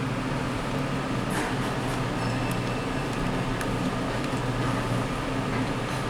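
Steady low mechanical hum around an Otis traction elevator, with a few faint ticks.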